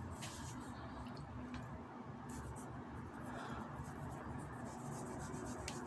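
Faint rubbing of fingers rolling a small piece of biscuit modelling dough into a strip on a work surface, with a few light taps.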